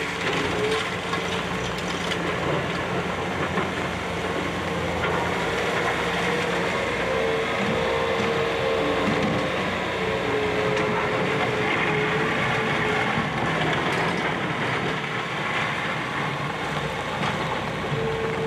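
Demolition excavator working on a building: a steady engine drone with a held mid-pitched tone that drops out and returns, over continuous crunching and crackling of debris.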